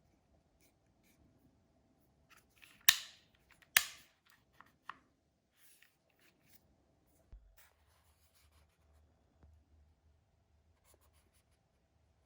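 An impact driver being handled: two sharp clicks about a second apart, then a few lighter ticks and faint rubbing. The motor is not running.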